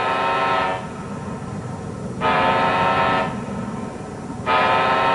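A fireboat's emergency horn blaring in repeated blasts, each about a second long and a little over two seconds apart, over a low steady rumble: the horn going off by accident.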